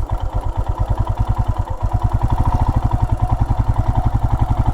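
Royal Enfield Himalayan's single-cylinder engine running with an even beat of exhaust pulses, growing louder over the first couple of seconds.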